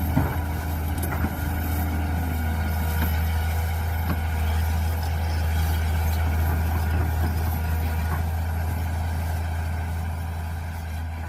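Mini excavator engine running steadily with a low hum, and a higher whine that drops away about two seconds in; a few light knocks.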